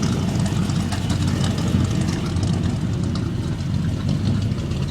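1978 Ford truck engine idling steadily, its exhaust note raw and pulsing through a quarter-sized hole blown at a weld in the exhaust pipe and muffler.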